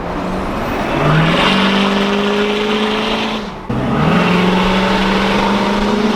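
Straight-piped Ford F-250 exhaust under full throttle, very loud. The engine note climbs about a second in and holds, falls away for a moment past the middle as the truck shifts gear, then pulls again.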